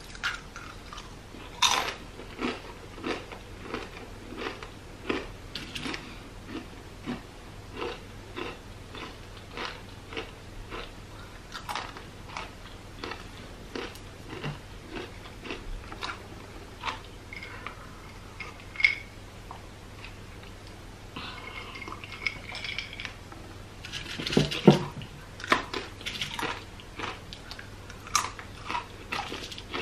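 Close-miked crunching of crisp plantain chips being bitten and chewed, a steady run of crunches about two a second. A bigger bite comes about two seconds in, and a burst of loud bites near twenty-four seconds.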